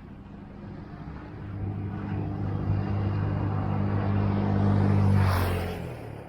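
A motor vehicle passing close by: a steady low engine hum that builds over several seconds, peaks with a brief rush of noise, then fades quickly.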